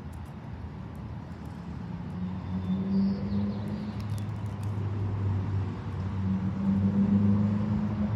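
A motor vehicle's engine running with a steady low hum that grows louder about two seconds in.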